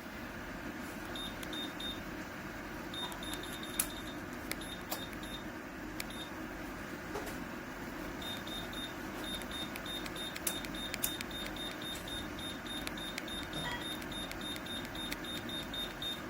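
A ceramic fan heater's fan running steadily with an even whoosh of air. Over it come runs of short, high electronic beeps, several a second, and a few sharp clicks.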